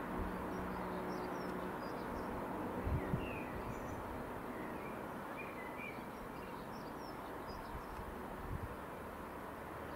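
Small birds chirping now and then over a steady outdoor background rumble, with a couple of short low thumps about three seconds in.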